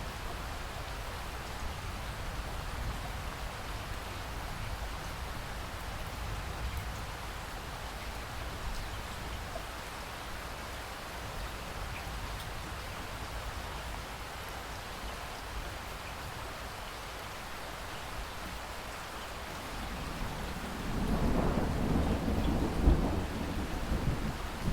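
Steady rain falling, with a low rumble underneath; near the end a roll of thunder builds up and grows loud.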